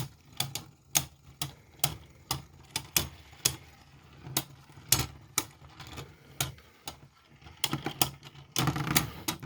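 Two Beyblade spinning tops, a 3D-printed V6 and Geist Fafnir, clashing in a stadium. Sharp plastic clacks come irregularly, about two a second, over a low steady hum, with a dense flurry of hits near the end.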